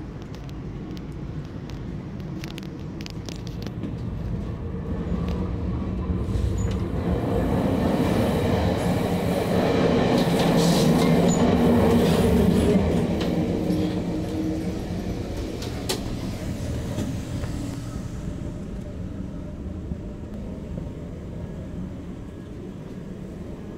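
Running noise of a moving passenger train, VIA Rail's The Canadian, heard from aboard: a steady rumble of wheels on rail that swells louder midway, then eases off, with a few sharp clicks.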